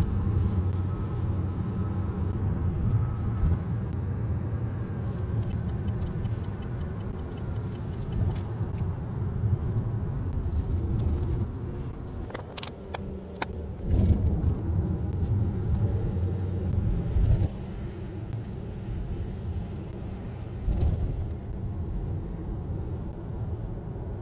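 Truck engine running with a low rumble as it manoeuvres in reverse; it eases off briefly about halfway through, then picks up louder again.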